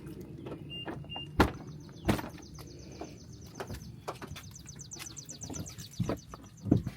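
Handling noises: several sharp knocks, two short high beeps about a second in, and two runs of fast, even ratcheting clicks.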